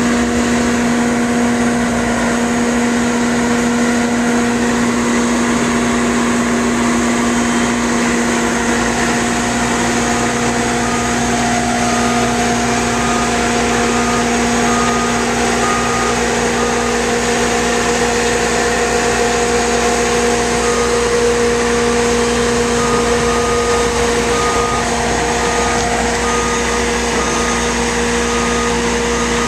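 Bobcat T750 tracked skid steer's diesel engine running steadily, with its backup alarm beeping about once a second from about ten seconds in, pausing, then beeping again near the end as the machine reverses.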